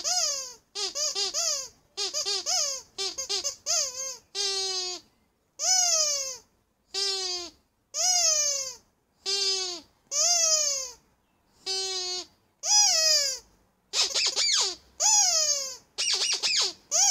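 Rubber squeaky toy squeezed over and over: quick short squeaks in little bunches for the first few seconds, then longer squeaks about once a second, each falling in pitch.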